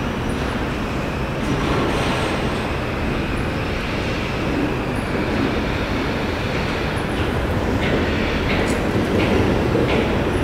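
A train running past with a steady rumble, its wheels clacking over rail joints in the second half.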